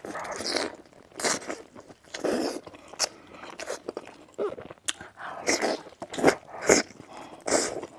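Close-miked crunching bites into crispy fried chicken coating, with chewing between them. There is a string of sharp crunches at uneven intervals, several of them loud near the end.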